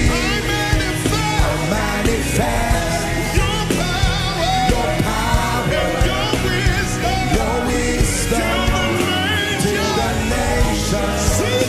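Gospel worship music: a band with steady bass and drums, and a voice singing in long, wavering lines without clear words.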